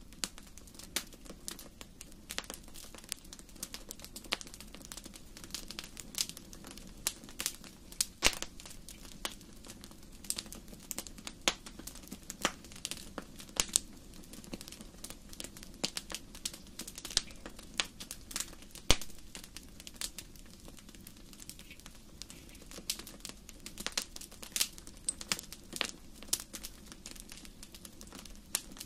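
Wood fire crackling in a fireplace: irregular sharp pops and snaps, several a second, with a few louder cracks, over a low steady hiss of the burning logs.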